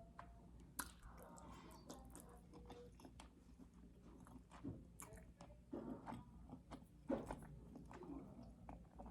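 Close-up mouth sounds of someone chewing and biting food, mostly wet smacks and small clicks, over a low steady hum.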